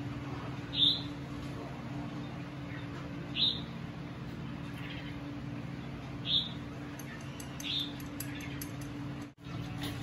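A small bird chirping, four short, sharp calls a couple of seconds apart with fainter ones between, over a steady low hum.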